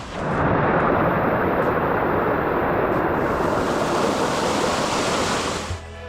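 Rushing water, a steady loud rush of white noise that starts abruptly and cuts off shortly before the end.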